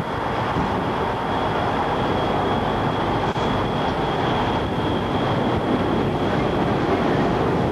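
Steady roar of strong wind buffeting the microphone, mixed with highway traffic noise, with a thin high steady tone above it.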